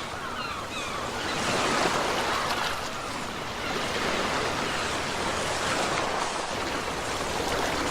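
Ocean waves: a continuous rushing wash that swells and ebbs, loudest about two seconds in.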